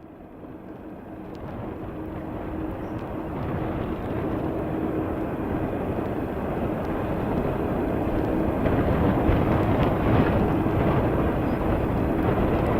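Boeing 767 jet airliner on final approach, its engine rumble growing steadily louder as it nears, with a steady hum running through it.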